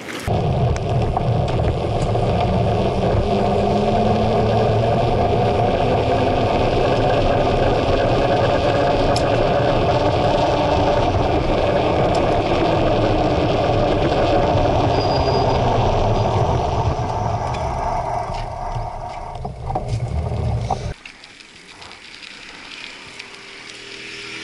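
Wind buffeting and rolling vibration on a bike-mounted action camera as the mountain bike rides along a paved path: a loud, steady rumble and rattle. It cuts off suddenly about three-quarters of the way through, leaving much quieter street sound.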